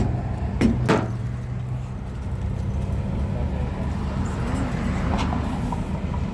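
Steady low engine hum, with a couple of sharp knocks in the first second.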